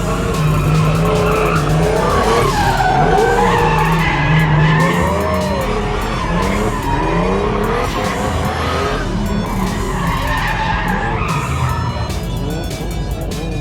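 Drift car's engine revving hard and its tyres squealing through continuous slides, the squeal wavering up and down in pitch.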